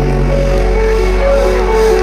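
Loud electronic remix music with a deep held bass and a synth melody, played through a large 'horeg' street sound system.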